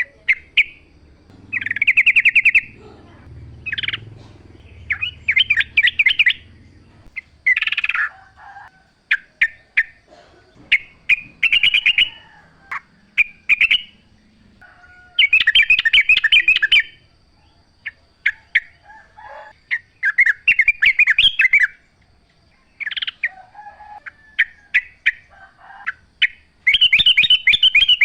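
Yellow-vented bulbul (trucukan) singing: short phrases of quick chattering notes, repeated every second or two.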